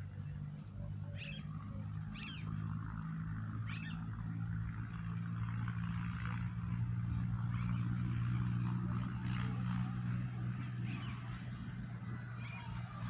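A steady low hum, loudest through the middle, with short high bird chirps breaking in about six times.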